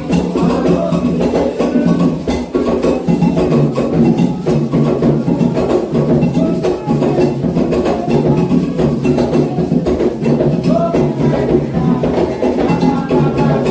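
Candomblé ritual drumming: atabaque hand drums and a struck bell keep a dense, steady rhythm for the rum of Ogum.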